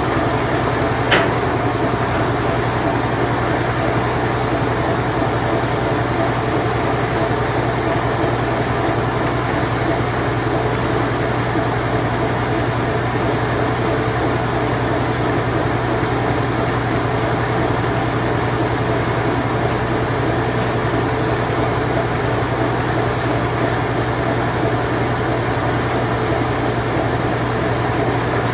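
Vintage circa-1990 Whirlpool Imperial Clean Touch washing machine running steadily in its spin cycle, a constant low hum with a whooshing mechanical rush over it. A single sharp click sounds about a second in.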